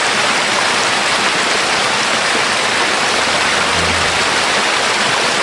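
Waterfall, a loud steady rush of falling water close by.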